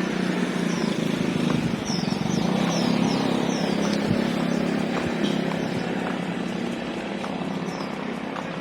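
A steady engine drone, loudest for the first few seconds and easing off toward the end. A run of short, high, falling chirps sounds over it about two to four seconds in.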